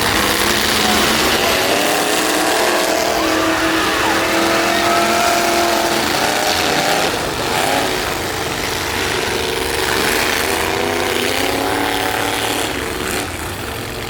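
Demolition-derby truck engines revving hard, their pitch rising and falling over a loud background of engine noise, with a sharp swing in pitch about seven seconds in.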